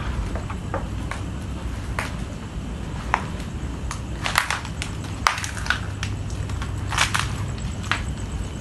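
Footsteps crunching over rubble and debris: irregular crunches and sharp clicks, loudest in the middle and near the end, over a steady low hum.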